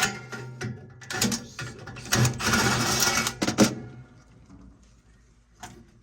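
Metal parts clanking and knocking as a furnace is taken apart, with a scraping rattle from about two to three and a half seconds in, then one more knock near the end.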